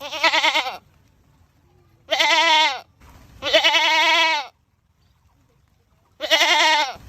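Goat screaming: four loud, wavering bleats, each under a second long, with short pauses between them.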